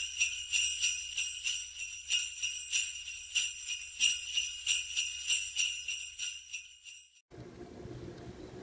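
Sleigh bells jingling in a steady rhythm, about three shakes a second, cut off sharply about seven seconds in. Then a low rumble of rail and street noise.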